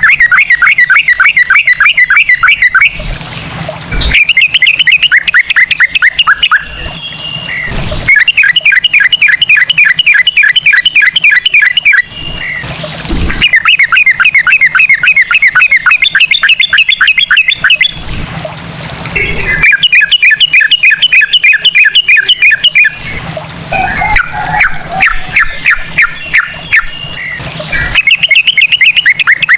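Yellow-vented bulbul (trucukan) singing in long runs of fast, repeated sharp notes, the 'ropel' style with cucak rowo-like phrases. About seven runs, each two to four seconds long, with short breaks between them.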